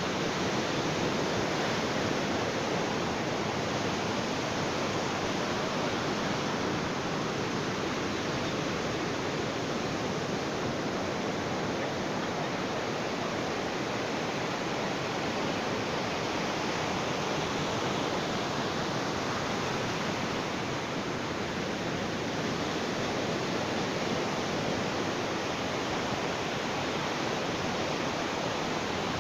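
Ocean surf on a beach: a steady, even rush of waves with only slight swells in level.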